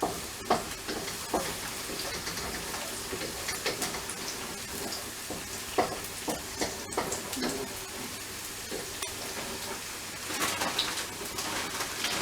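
Stir-fry noodles and chicken sizzling in a hot pan, with scattered scrapes and clicks of a utensil stirring them; the sizzle grows louder near the end.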